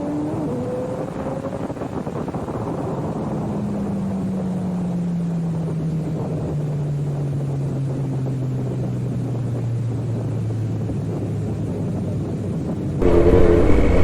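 Kawasaki Z900's inline-four engine heard from the moving bike, its revs falling slowly and steadily as the bike slows, with wind on the microphone. About a second before the end the sound gets suddenly louder.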